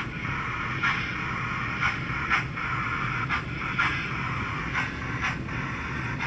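S-gauge American Flyer model steam locomotive running, its chuff synchronized to the wheels: short hissing chuffs come about every half-second to second over the steady hum of the electric motor.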